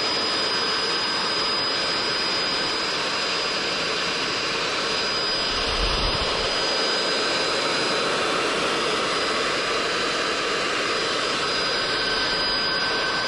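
Electric drill running at full speed, boring through the thick steel of an iron gate: a steady high motor whine over a harsh grinding noise, held without a break.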